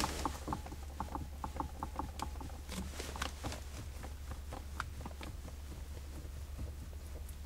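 Worn steering rack of a 2005 Mazda6 (GG), knocking irregularly several times a second over a steady low hum, a dull knock coming from the right, passenger side. The knock is a known fault of these Mazdas and Fords.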